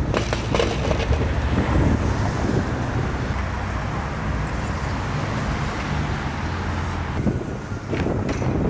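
Steady low rumble of road traffic with wind buffeting the microphone, and a few sharp clicks in the first second and near the end.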